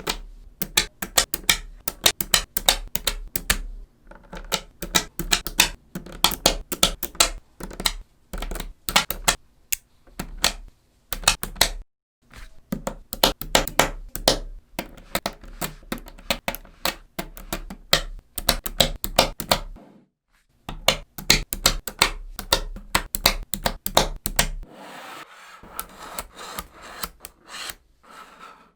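Small neodymium magnetic balls clicking and snapping together in quick runs of sharp clicks broken by short pauses. Near the end the clicks give way to a softer rubbing, grinding sound of the balls rolling against one another.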